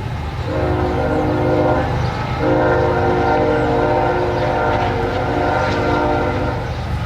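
Train horn sounding a chord of steady tones: a blast of about a second and a half starting half a second in, then a second blast of about four seconds, over a steady low rumble.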